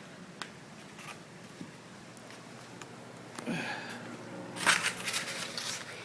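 Light handling noises: a few small clicks, a faint breath, then a short burst of rustling about three-quarters of the way through.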